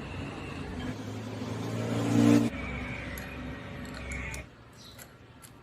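A small motor running with a steady hum that grows louder, cuts down sharply about two and a half seconds in, runs on more quietly, and stops near the end.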